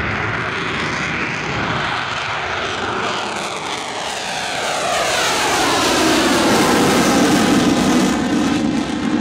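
F/A-18 fighter jet's engines at full power on a very short takeoff run. The roar swells in the second half, with a sweeping, phasing whoosh as the jet passes.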